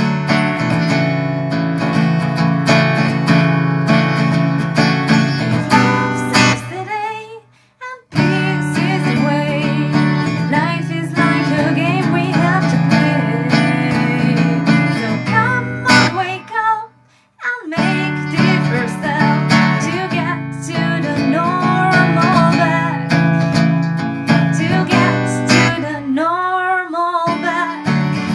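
Acoustic guitar strummed in steady chords with a woman singing over it, performing an original song. The playing drops out briefly twice.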